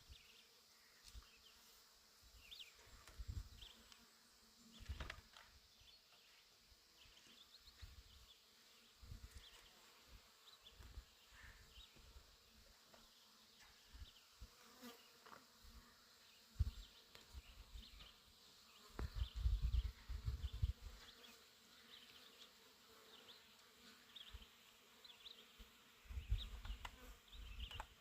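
Faint buzzing of flying insects, with short high chirps scattered throughout. Irregular low rumbles, loudest about two-thirds of the way in and again near the end, sound like wind or handling on the microphone.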